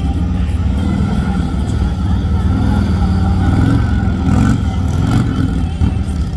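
Harley-Davidson Road Glide police motorcycle's Milwaukee-Eight V-twin engine running at low speed, rising and falling with the throttle as the bike weaves through tight, slow cone turns.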